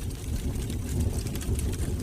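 Wood fire burning in a fireplace: a steady low rumble of the flames with a few faint crackles.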